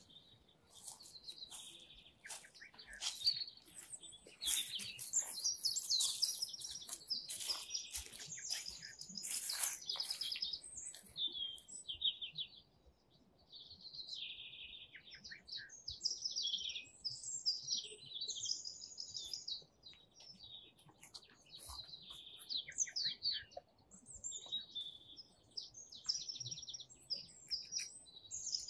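Songbirds singing and calling: a busy run of short, high chirps and trills with brief gaps, at its densest in the first third.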